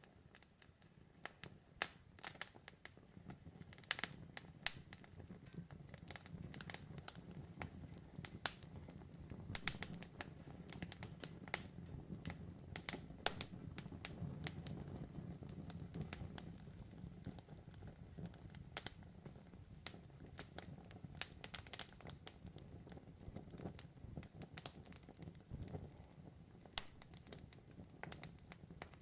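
Wood campfire crackling and popping, with irregular sharp snaps, some louder than others, over a low steady rumble of the flames.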